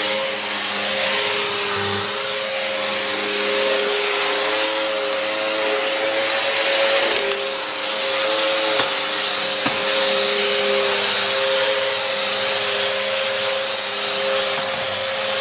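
Hoover Nano Light 12-amp bagless vacuum cleaner running continuously while vacuuming. It makes a steady whine over rushing air, and its pitch wavers slightly.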